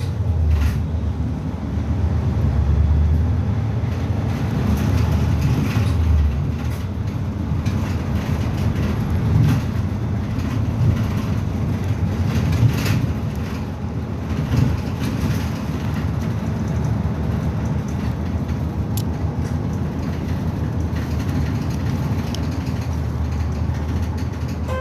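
Nagasaki Bus no. 2202 heard from inside while running: a steady low engine and road rumble, with a few short rattles and knocks from the body.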